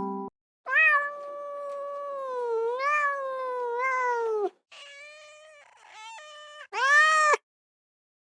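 Domestic cat meowing three times: first one long drawn-out meow, then a quieter meow, then a short loud one.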